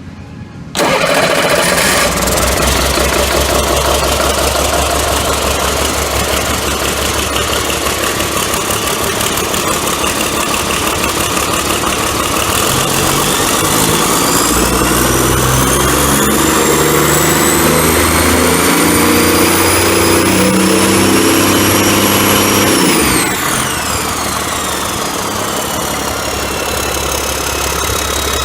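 A 2008 Caterpillar C7 ACERT inline-six diesel engine starts about a second in and runs at idle. Around the middle it revs up slowly, with a high whine climbing in pitch. Near the end it drops back to idle and the whine falls away.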